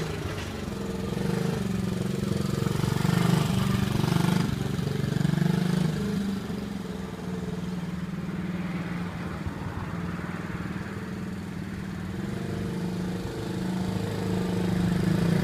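Small 110 cc pit bike's single-cylinder engine running, with the engine speed rising and falling in the first few seconds, then settling steadier and quieter before picking up again near the end.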